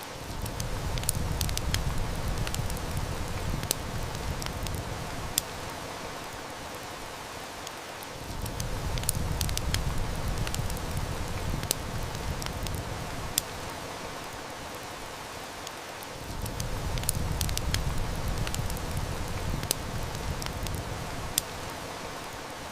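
Heavy rain and wood-fire ambience: a steady hiss of rain, with sharp snaps and crackles of burning wood scattered through it. A low rumble swells up and dies away three times, about every eight seconds.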